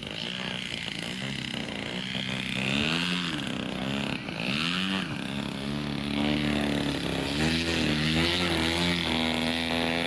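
Electric radio-controlled model helicopter flying a low aerobatic display: its motor and rotor whine rises and falls in pitch again and again as it swings side to side.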